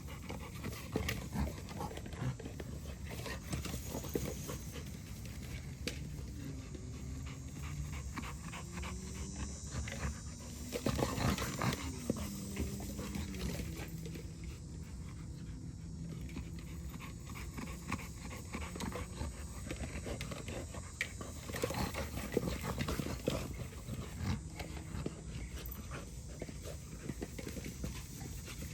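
Dog panting steadily and rapidly.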